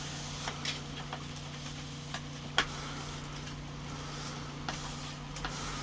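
A few light, scattered clicks and taps from handling, one sharper than the rest about two and a half seconds in, over a steady low hum.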